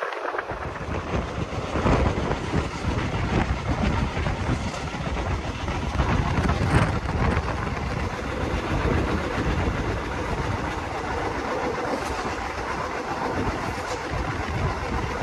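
Express train running on the track: a steady rumble from the coach wheels, with an occasional clack over the rails.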